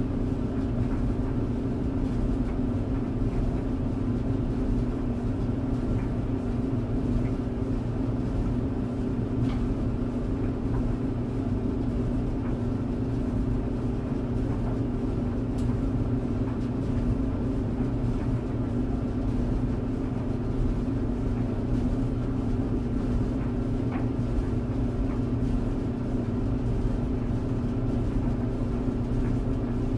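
Clothes tumble dryer running: a steady motor hum over a low drum rumble, with a few faint ticks now and then.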